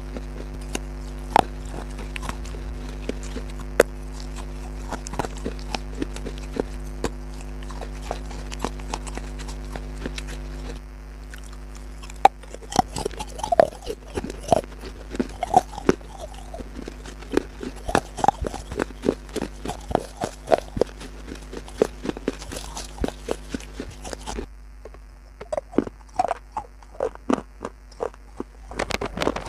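Crunchy food being bitten and chewed up close, a long run of sharp crunches. Over the first third they sit above a steady low hum; from about twelve seconds in the crunches come thicker and faster.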